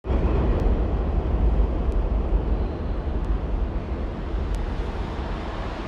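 Steady low rumbling noise, heaviest in the deep bass, with a few faint ticks.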